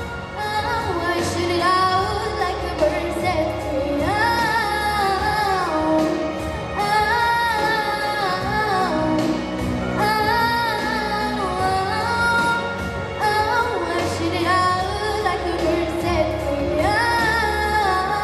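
A girl singing long, sliding wordless vocal lines over a pop ballad backing track.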